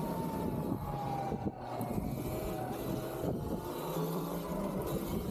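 Electric dirt bike on the move: a thin motor whine that falls slowly in pitch as the bike eases off, over a steady low rumble of wind and riding noise.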